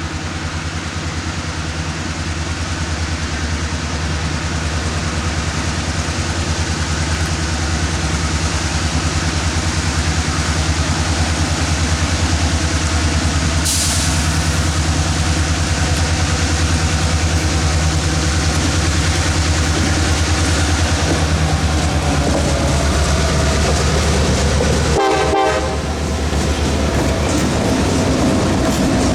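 Diesel locomotive of the Housatonic Railroad freight train approaching, its engine running with a steady low hum that grows louder. There is a brief hiss about halfway through and a short dip near the end.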